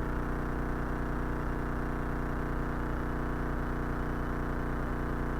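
Cessna 172 piston engine and propeller running steadily at reduced descent power, about 1,400 to 1,500 RPM, heard as an even drone from inside the cabin.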